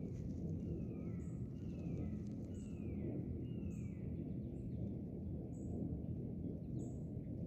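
Swamp ambience: a steady low background rumble, with a bird repeating a short downslurred call about once a second and short high chirps between them.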